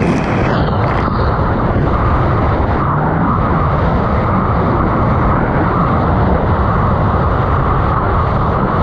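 1999 Sea-Doo XPL's two-stroke engine running steadily under way, under heavy wind noise on the microphone.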